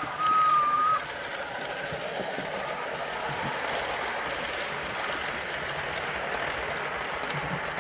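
Model railway locomotive sounding its whistle, one steady tone that cuts off about a second in, followed by the model train's steady running noise.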